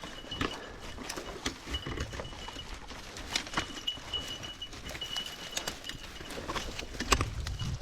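Footsteps and rustling through brush: scattered crackles and snaps, with a faint high thin tone that comes and goes.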